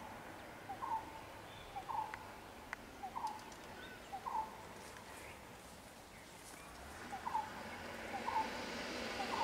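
A bird calling a short note over and over, about once a second, with a break of a couple of seconds about halfway through, over faint background hiss.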